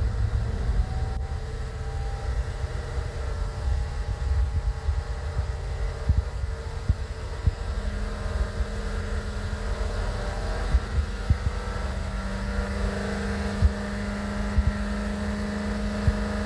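Mercedes-Benz M278 twin-turbo V8 running above idle with its speed slowly rising, a healthy engine with normal cam timing. A steady hum comes in about eight seconds in and holds.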